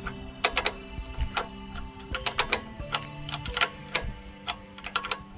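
Irregular light metallic clicks and ticks from hand tools and cable fittings being worked on a Vanguard 20 HP engine's choke and throttle linkage, over background music with slowly changing held chords.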